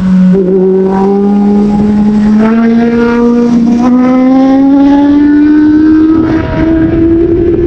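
Sport motorcycle engine running hard under acceleration, its pitch climbing steadily, with a brief dip about six and a half seconds in.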